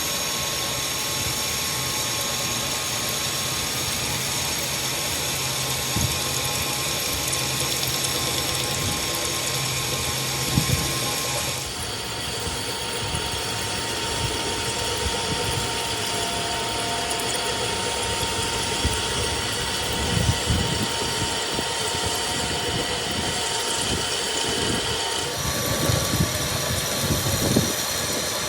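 Steady mechanical running noise of a machine or power tool, a hiss with a few steady whining tones, broken by a few knocks. The sound changes abruptly about twelve seconds in and again near the end.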